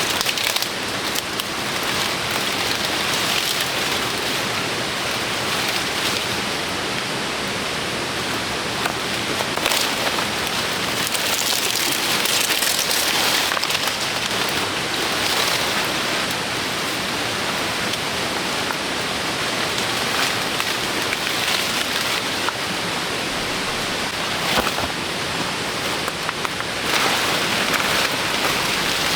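Steady rain falling: a dense, even hiss with scattered drop ticks, holding at about the same level throughout.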